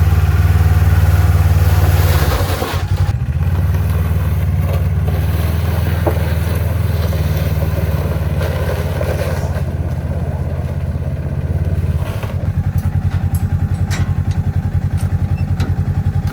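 A vehicle engine running steadily with a low hum. Its sound shifts about two and a half seconds in and again about twelve seconds in, after which it takes on a fast, even pulse.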